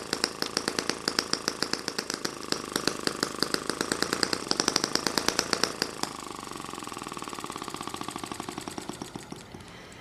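M12 mini four-stroke, water-cooled single-cylinder gasoline model engine running, with a rapid train of sharp, regular exhaust pops. About six seconds in the pops get quieter and softer, and the sound fades toward the end.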